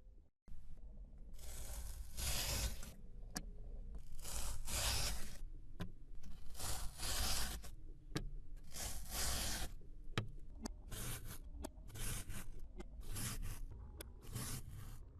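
Repeated scraping strokes, each about a second long, coming shorter and quicker in the last few seconds.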